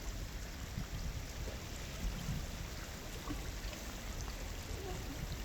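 Shallow stream water running steadily over its bed, an even rushing hiss.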